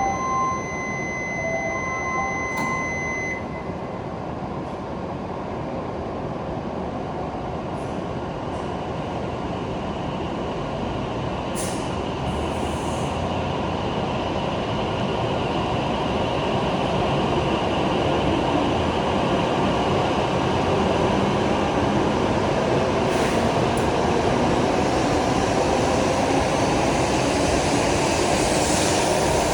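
W7 series Hokuriku Shinkansen train pulling out and gathering speed, its running noise growing steadily louder, with a rising electric motor whine near the end. A steady electronic platform tone sounds for the first three seconds or so.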